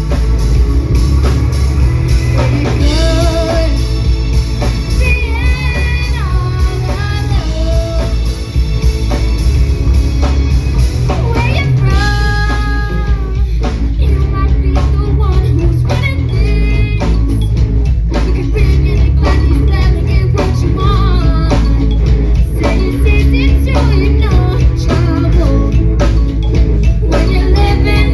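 Rock band playing live, loud through the whole stretch: a singer over drum kit and heavy bass.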